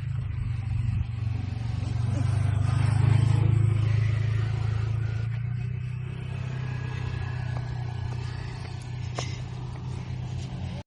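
A motor engine running with a steady low rumble, swelling a couple of seconds in and then easing off.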